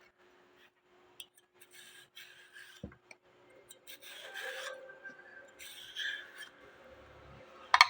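Close-up crunching and chewing of raw vegetables, in short spells of crisp rasping, with a light knock about three seconds in.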